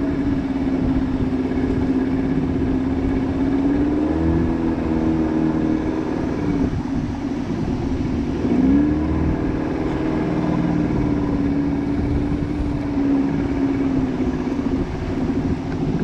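Outboard motor of a river boat running steadily under way, its pitch rising slightly about four seconds in, sagging for a moment about halfway through and picking up again.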